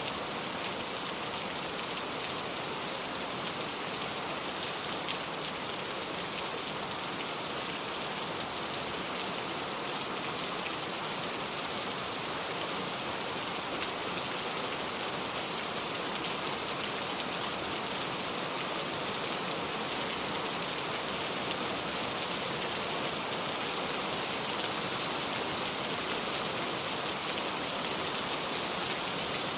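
Heavy, steady rain pouring down, a dense even patter of drops with many fine individual ticks.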